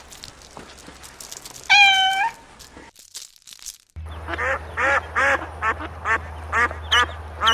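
A single drawn-out cat meow, then after a short gap a duck quacking over and over, about two quacks a second.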